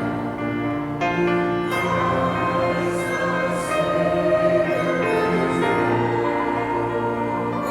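Church choir singing, with long held chords that change every second or two.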